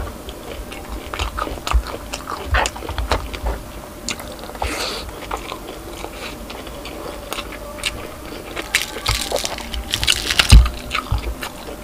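Close-up chewing and crunching of crispy deep-fried pork knuckle (crispy pata), with many small crackles. Near the end comes a dense run of crisp crackling and a thump as the knuckle's crackling skin is gripped and torn by hand.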